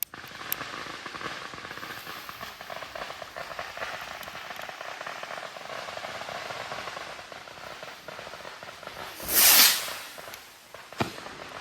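A bottle rocket's fuse sizzling and crackling for several seconds, then the rocket launching from the bottle with a brief loud whoosh, followed about a second and a half later by a single small pop.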